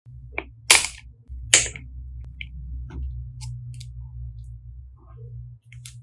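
Two loud, sharp clicks about a second apart, then a few fainter ticks, over a low steady hum.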